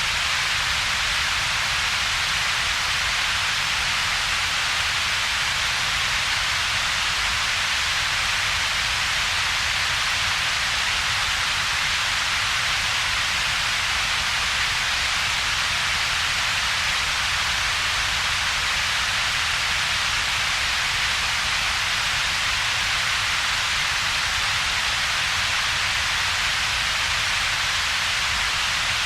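Steady synthetic double-peaked noise: an even hiss with one strong band in the upper range, about 2–8 kHz, and a weaker low band below about 200 Hz, with a gap in between. It does not change.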